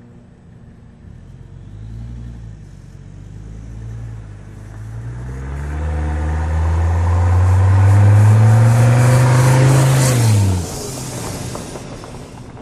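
Straight-piped 1982 Mercedes 300TD's turbocharged OM617 five-cylinder diesel, with no exhaust or muffler, driving by. It comes closer while accelerating, rising in pitch and loudness, then drops in pitch as it passes about ten seconds in and fades away.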